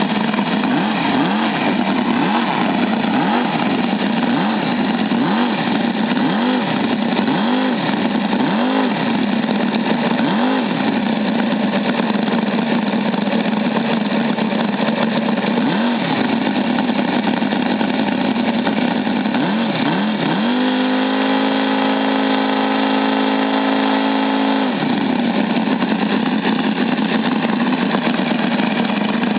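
ASP 400 five-cylinder model radial glow engine running on a break-in run. Its speed swells up and down rhythmically for the first ten seconds or so, then about twenty seconds in it jumps to a steady higher speed for about four seconds before dropping back.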